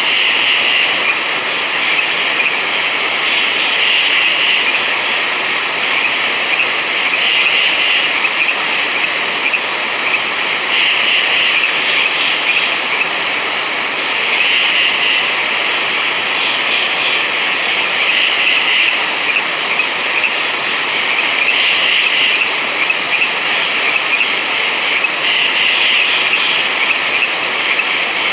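Night chorus of frogs: a dense, steady trilling, with a louder call standing out about every three to four seconds.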